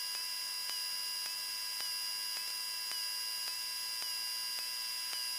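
Steady electrical hum and whine over hiss, with a faint click about twice a second, on a Cessna 172M's radio and intercom audio. The deep engine drone is almost absent.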